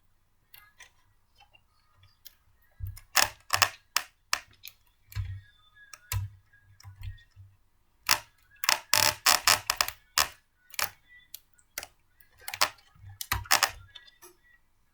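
Hard plastic and metal blender parts being handled and fitted together: irregular clicks and clatter in three busy clusters, with scattered lighter ticks between.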